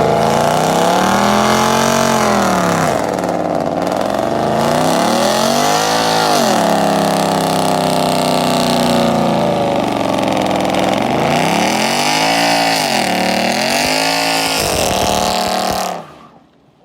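A car engine being revved repeatedly, its pitch climbing and falling back several times between steadier stretches at raised revs. It cuts off abruptly near the end.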